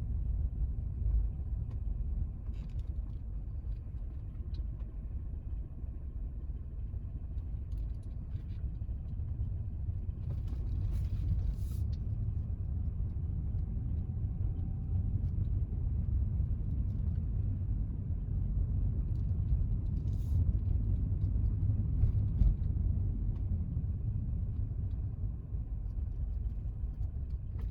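Car driving down a steep unpaved road: a steady low rumble of tyres and engine, with a few short knocks and clicks about a third and two thirds of the way through.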